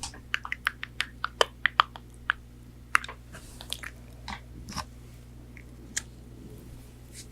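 Close-miked chewing of crispy fried chicken nuggets: a quick run of sharp crunches as they are bitten and chewed, easing into slower, softer chewing.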